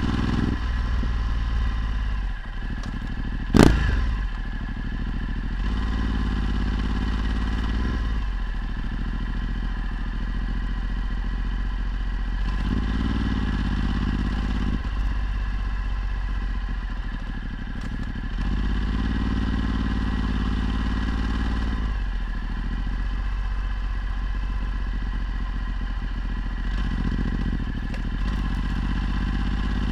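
Ducati Multistrada 1260's V-twin engine running through a Termignoni exhaust while riding, its pitch rising and falling with the throttle several times. A single sharp knock about three and a half seconds in is the loudest moment.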